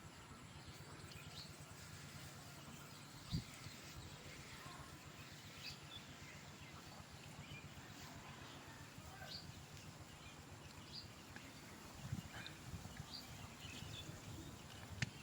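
Faint outdoor background noise with scattered short high chirps and a few dull thumps.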